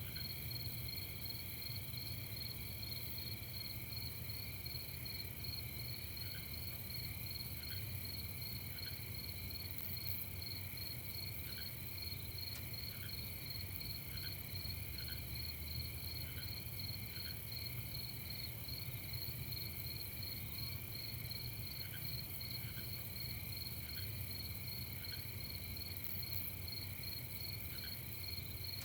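A night chorus of crickets chirping steadily, the highest trill rapidly pulsed, with short faint lower notes every second or so. A low steady rumble underneath.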